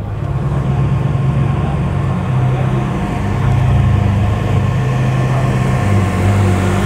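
Car engine running at a steady idle, a deep rumble with a steady hum over it, growing a little louder about halfway through.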